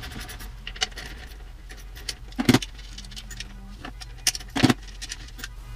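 Metal drum hardware being handled as a tom is taken apart: light clicks and clinks, with two louder metallic clanks about two and a half seconds in and again near the end.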